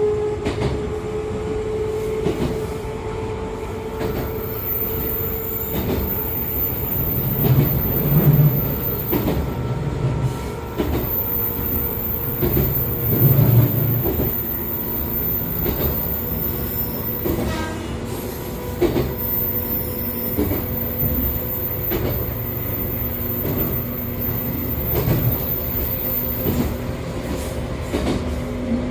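On-board running sound of an Echizen Railway MC6101 railcar, the set known for an abnormal running noise, with MT54 DC series-wound traction motors: a steady motor and gear hum with wheels knocking over rail joints, and heavier low thumps a couple of times. A thin, very high-pitched whine sounds through most of it.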